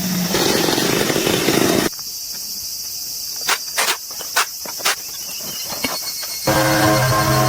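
Insects chirring steadily at a high pitch, with a few sharp clicks in the middle and a pitched motor hum coming in near the end.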